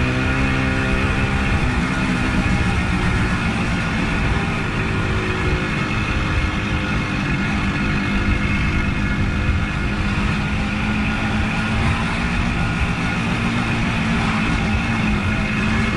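Suzuki GT185 two-stroke twin motorcycle engine running on the move, over a steady rushing noise. The engine note shifts about a second and a half in.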